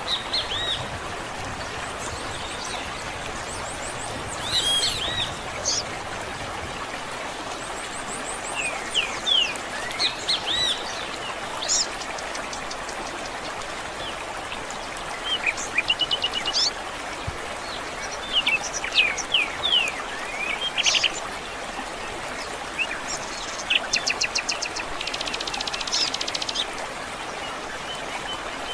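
Several wild birds singing and chirping in short calls, trills and whistled notes, over a steady background rush of running water or wind.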